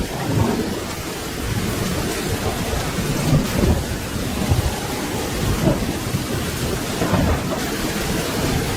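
Steady rain falling, with thunder rumbling low and continuously underneath.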